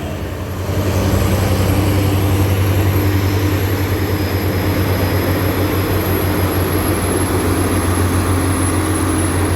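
Heavy truck's diesel engine running with a steady deep drone, getting louder about a second in.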